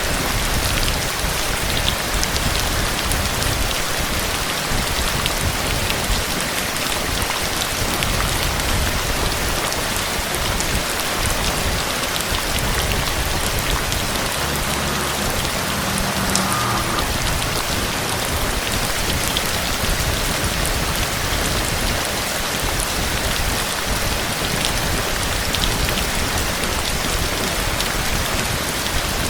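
Steady, unbroken rain falling hard, with scattered individual drop hits ticking through it.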